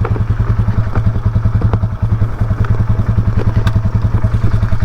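Honda CBR300R's single-cylinder engine idling with a steady, even low pulse, with a few faint ticks above it.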